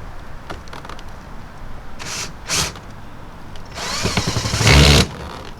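Cordless screw gun driving a screw into a plastic front lip: two short bursts, then a longer run of about a second that is loudest near its end.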